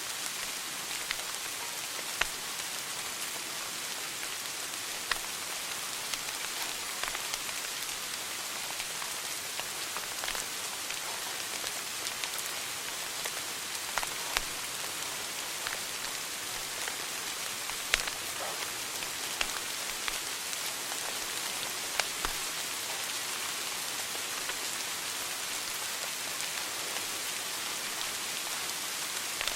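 Wood fire in a fireplace crackling: a steady hiss with sharp pops scattered every few seconds.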